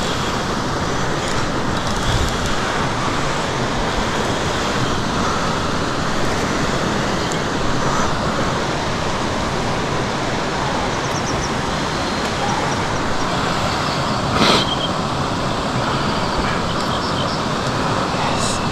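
Steady rush of a flowing river, with one brief knock about three-quarters of the way through.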